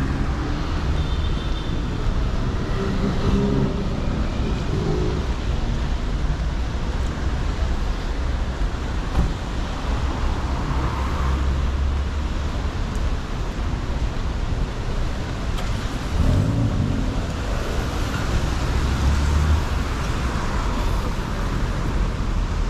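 Steady city street traffic: cars and buses running past on a wet road, with a couple of louder vehicles going by about halfway through and near the end.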